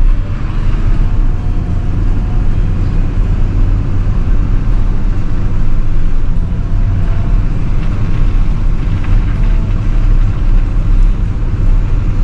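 Snow-plow truck's engine running under load as it speeds up to push snow, a steady heavy low rumble.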